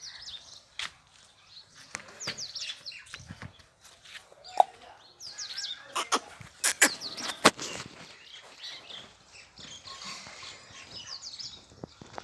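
Small birds chirping in quick, sliding calls throughout, with a scatter of sharp clicks and knocks, the loudest around the middle.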